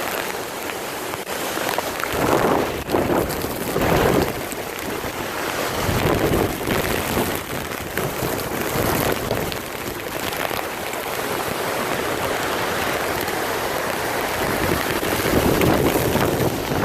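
Hurricane wind with rain, rushing over the microphone. It swells and eases in gusts every few seconds.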